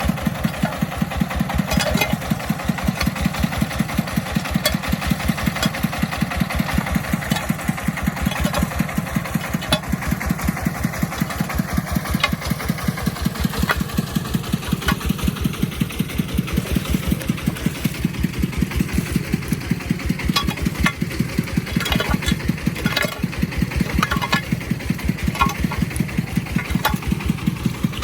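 Agricultural vehicle's engine running with a steady, even chug of about seven beats a second, with scattered rattling knocks over it.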